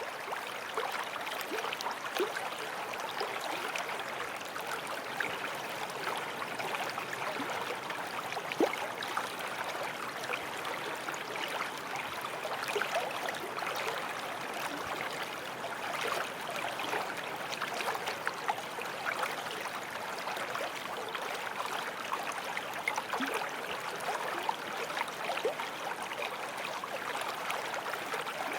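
Forest stream flowing steadily over stones, an even rushing of water with many small splashes and gurgles.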